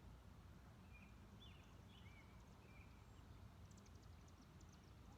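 Near silence outdoors: a faint steady low rumble, with a few soft bird chirps a second or two in and a quick run of faint high ticks near the end.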